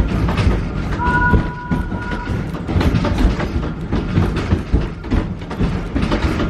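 Wildlife Express train rolling along the track, wheels clicking and clanking over the rail joints under a steady rumble. About a second in, a brief steady two-note tone sounds over it.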